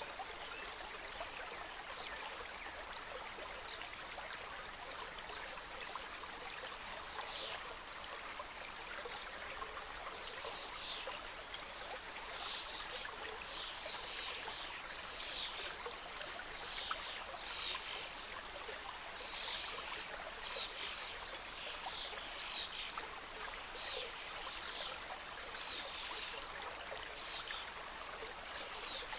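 Small mountain stream cascading and trickling steadily over rocks. From several seconds in, a bird chirps over it in quick runs of short falling notes.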